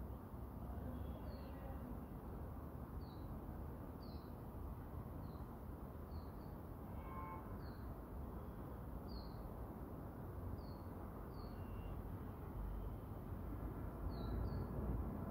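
A bird chirping in short, high notes about once a second over a steady outdoor background hum.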